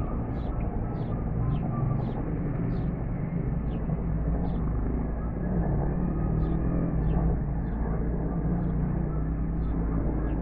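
Steady low rumble, like a car on the move, with faint short clicks about once or twice a second.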